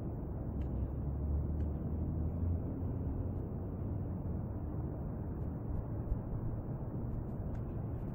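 Steady low rumble of background noise, with a low hum swelling for about two seconds near the start and a few faint clicks.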